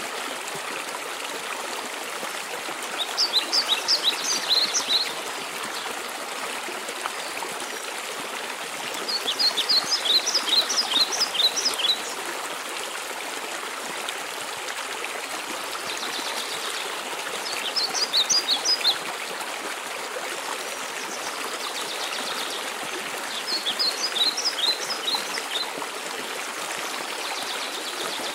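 Steady rushing of a waterfall, with a songbird singing four short phrases of quick, high notes, each lasting two to three seconds and coming about every six to seven seconds.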